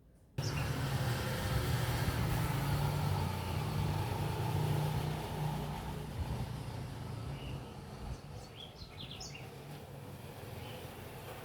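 A motor vehicle's engine running close by, starting abruptly, then fading away over several seconds. A few short bird chirps come near the end.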